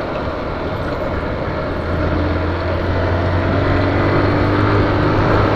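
Honda CG 125 Fan motorcycle's single-cylinder four-stroke engine running steadily on the move, with wind and road noise; the engine note gets a little louder about two seconds in.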